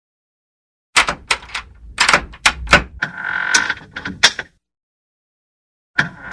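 A door being handled: a run of sharp clicks and knocks from the latch and hinges, with a short squeak in the middle. After a pause, another quick cluster of clicks comes near the end.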